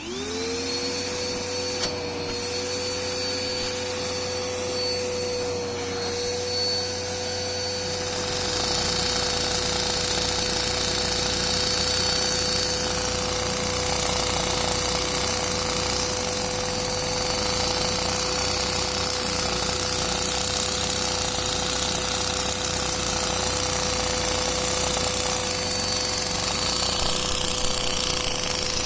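Vacuum cleaner motor switching on and spinning up to a steady whine, driving a LEGO flathead vacuum engine that runs with a fast mechanical clatter. The lower rattling grows louder about eight seconds in as the engine gets going.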